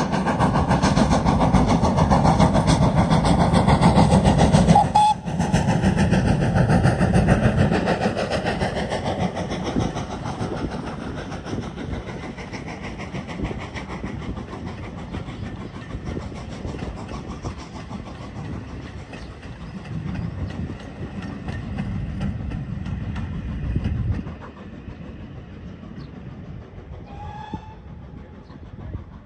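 A train running past, loud for the first several seconds and then fading steadily as it draws away. There is a brief break in the sound about five seconds in.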